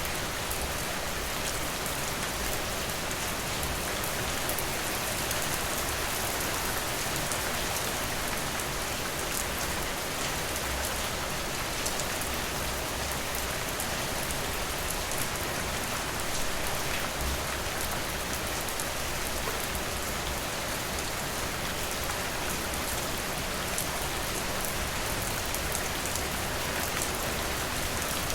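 Steady rain falling, with fine scattered drop ticks and no thunder.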